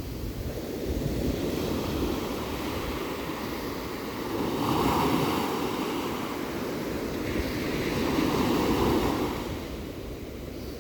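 Ocean surf: waves washing in over a constant low rumble, swelling louder about halfway through and again near the end.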